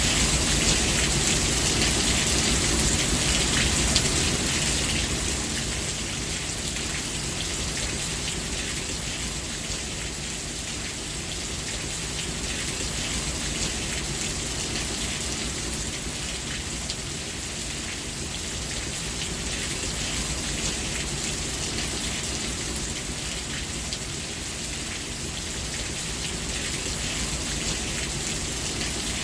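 Steady rain falling, a dense patter of countless drops over a low rumble, a little louder for the first few seconds and then even.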